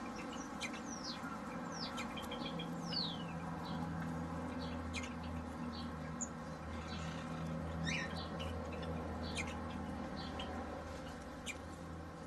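Several aviary birds calling: scattered short chirps and quick downward-sliding whistled calls throughout, over a steady low hum.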